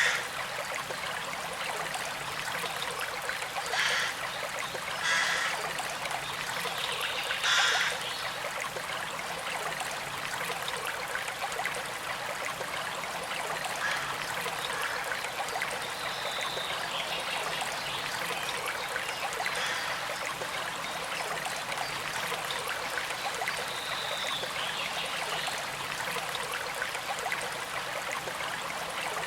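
A gentle stream flowing and trickling steadily, with a few brief louder splashes in the first eight seconds.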